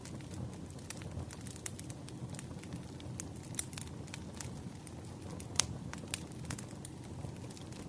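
Wood fire burning: a steady low rumble of flames with irregular crackles and pops of burning firewood, a sharper pop about five and a half seconds in.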